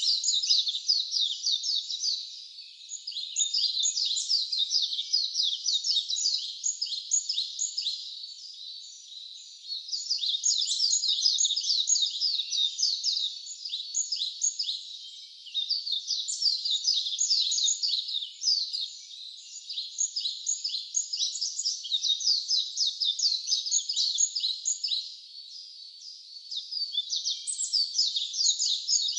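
Wild birds chirping: dense, high-pitched runs of rapid falling notes, coming in bursts of several seconds with short breaks between them.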